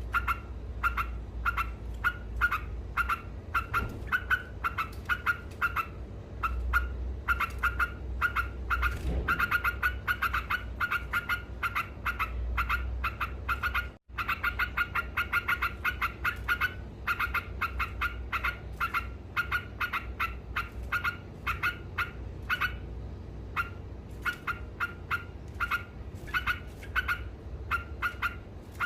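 Yellow-vented bulbul (trucuk) singing its 'ngekek' chatter: a long unbroken run of short, sharp notes at about three a second, breaking off for an instant about halfway, over a low steady hum.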